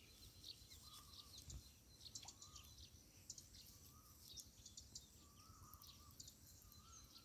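Near silence, with faint bird chirps and a short warbling call repeated every second or so.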